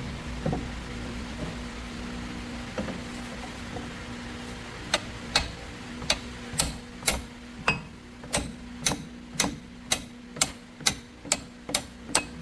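A steady low mechanical hum, and from about five seconds in a run of sharp knocks, roughly two a second, each ringing briefly.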